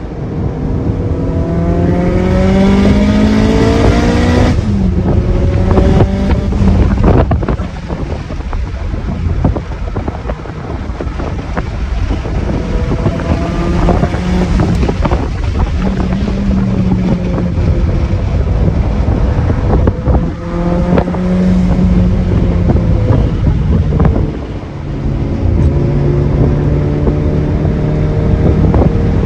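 Car engine and exhaust under hard acceleration, its pitch climbing through the revs and breaking off sharply at a gear change about four and a half seconds in, then pulling again in several later stretches. Heavy wind noise on the microphone runs underneath.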